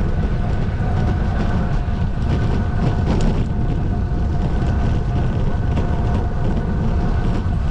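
Steady low rumble of wind buffeting the microphone during a bicycle race, with faint steady whining tones over it.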